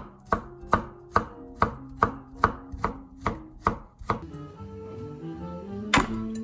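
Knife chopping on a cutting board in an even rhythm, about ten strokes at two to three a second. The chopping stops about four seconds in, and there is one more knock near the end.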